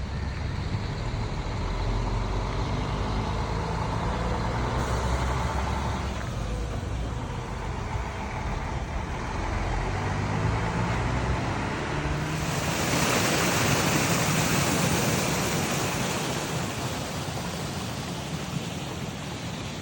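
River water flowing over stones in a steady rush. About twelve seconds in it turns brighter and hissier.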